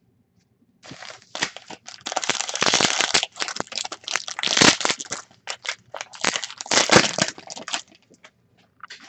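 Foil trading-card pack wrapper crinkling and crackling in the hands as the pack is opened, dense and irregular for about seven seconds.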